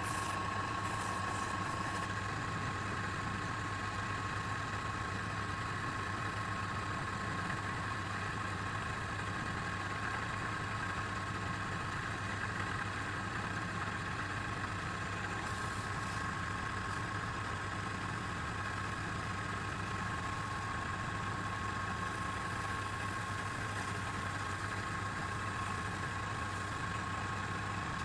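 Wood lathe running at a steady speed, with a constant whine and a low hum and no change in pitch.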